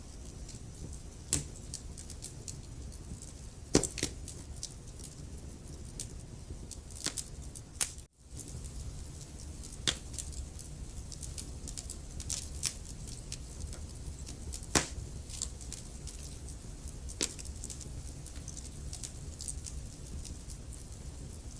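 Wood fire crackling in a fireplace: sharp, irregular pops and snaps from the burning logs over a steady low rumble. The sound cuts out for a split second about eight seconds in.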